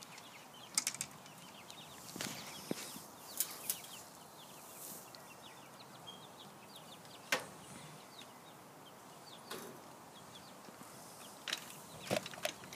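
Chickens clucking and chirping softly in a backyard coop, with scattered knocks and rustles, a few sharp ones near the end.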